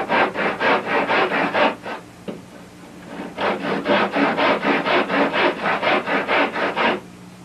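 Handsaw cutting through wood in quick, even strokes, about five a second, in two runs with a short pause between them.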